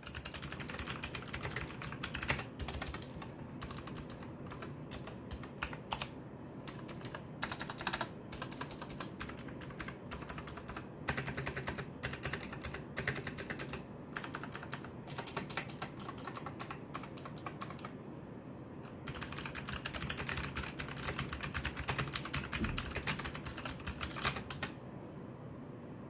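Keys of a Micronics MANIC X40 optical-switch keyboard being typed on: a fast, continuous run of keystroke clicks broken by short pauses, with a quieter lull about two-thirds of the way through.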